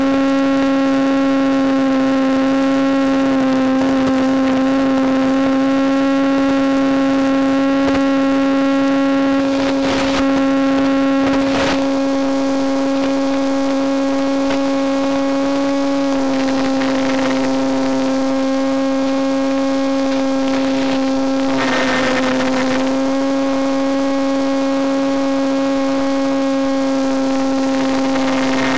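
Electric motor and propeller of a Penguin FPV model airplane running at steady cruise throttle, a constant pitched hum with a slight change in pitch a couple of times. Brief rushes of wind noise come and go.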